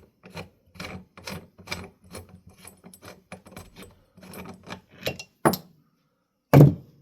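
Small metal ceiling-fan hardware clinking and rattling as it is worked loose and handled, in a quick run of light clicks, then two louder knocks about five and a half and six and a half seconds in.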